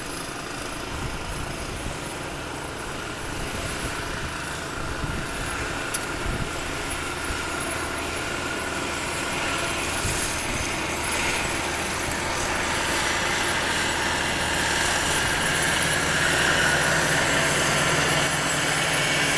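Heavy diesel engine of a front bucket loader clearing snow, running steadily and growing gradually louder over the second half.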